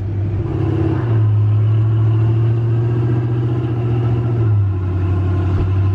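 Mega truck's engine running under load, its note rising about a second in, holding steady, then dropping back near the end.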